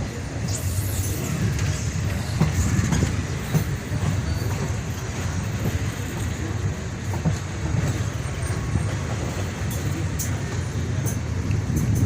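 Train running, a steady low rumble with scattered short clicks and knocks.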